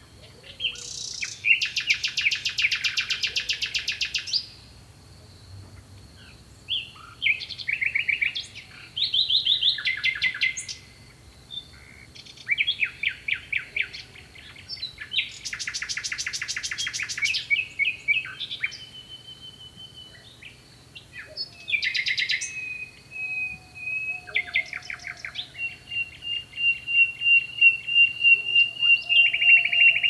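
Songbirds singing at night: bursts of rapid trills, chirps and whistled phrases, with a faint steady high tone behind them. Near the end comes one long held whistle with a quick pulsing beat.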